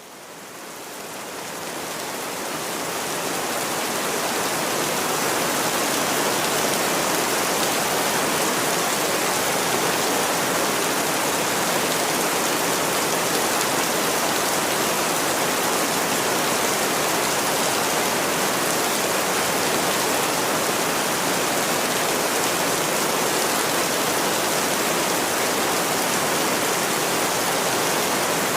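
Steady rain falling, an even hiss that fades up over the first few seconds and then holds.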